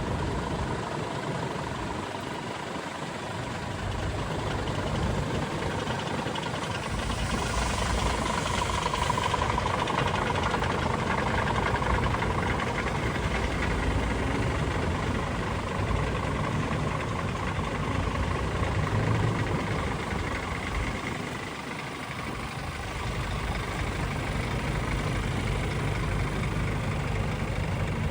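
Scania P410 sweeper truck's diesel engine running steadily, with a faint steady whine over it.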